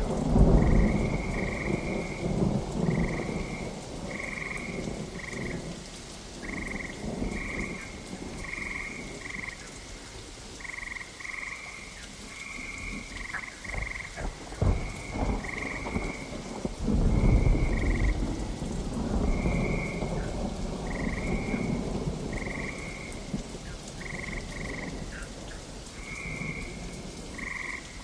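Thunderstorm with steady rain, thunder rumbling at the start and again about two-thirds of the way through. Frogs call throughout in short, same-pitched notes, about one or two a second.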